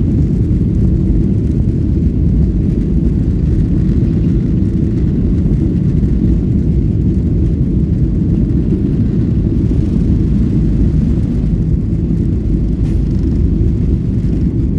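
Loud, steady low rumble of airplane engine noise, even throughout with no distinct tones or events.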